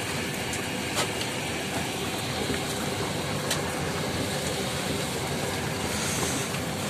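Heavy rain falling steadily as a dense, even hiss on the water and the corrugated roof overhead, with a few sharp ticks of drops.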